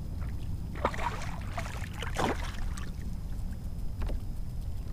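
Irregular splashing for a couple of seconds from a small hooked redfish thrashing at the water's surface beside a kayak. A steady low rumble of wind on the microphone runs underneath.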